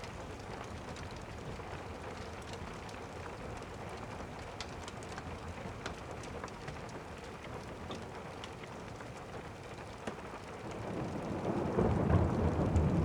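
Steady rain with scattered light drop ticks, and a low rumble of thunder building up near the end.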